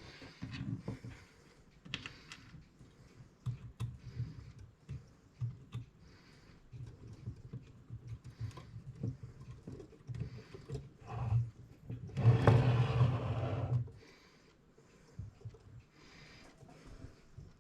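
Irregular small clicks and taps of clock-movement parts and tools being handled while the movement's wheels are fitted between its plates, with a louder rustling handling noise about twelve seconds in.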